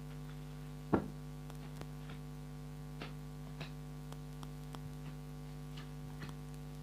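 Steady electrical mains hum in the recording, with scattered faint clicks and one sharper, louder click about a second in.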